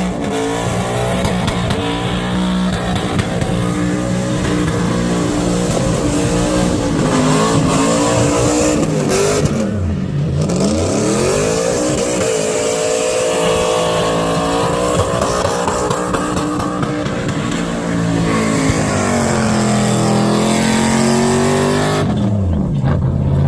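Car engine revving hard during a burnout, its pitch rising and falling, with a deep drop and a climb back up about ten seconds in. Tyre noise from the spinning wheels hisses over it.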